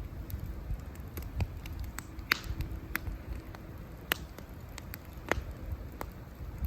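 Wood campfire crackling: irregular sharp pops and snaps over a low steady rumble. The loudest pops come a little over two seconds in, at about four seconds and at about five seconds.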